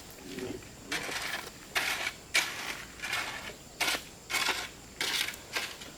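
A hand tool works wood in steady back-and-forth rasping strokes, about one and a half a second, like a hand saw cutting.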